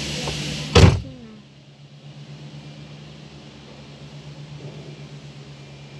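Car engine idling, a steady low hum heard from inside the cabin, with one loud thump just under a second in.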